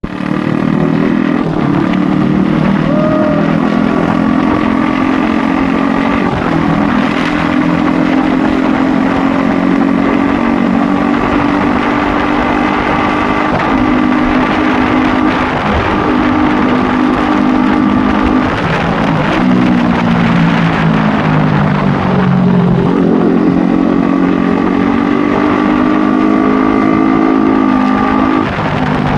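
KTM RC 390's single-cylinder engine and exhaust running continuously, its pitch rising and dropping several times as the revs change.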